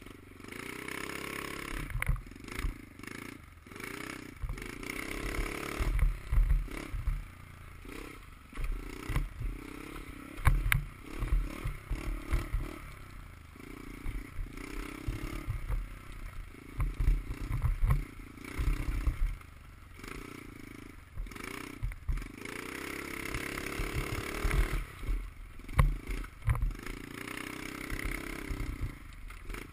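Dirt bike engine being ridden, its revs rising and falling every second or two, with frequent thumps and clatter.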